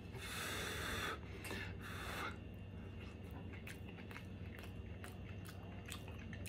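A person eating a hot sliver of cornbread with a crunchy crust: two short puffs of breath in the first couple of seconds, then faint chewing with small wet clicks.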